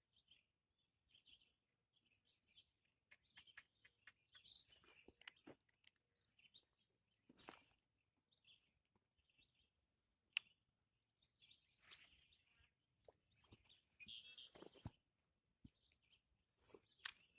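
Near silence outdoors, with faint bird chirps and a few soft clicks and rustles, one sharper click about ten seconds in and another near the end.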